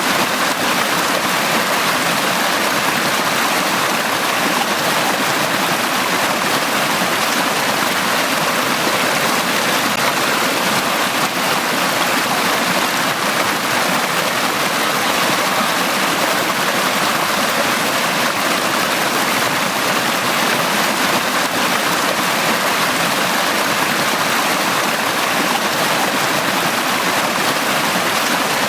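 Running stream water flowing and splashing in a steady rush, with no change over time.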